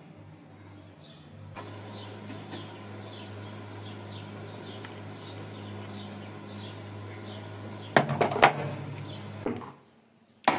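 Faint, repeated bird chirps over a steady low hum, then a short clatter of knocks and handling noise about eight seconds in.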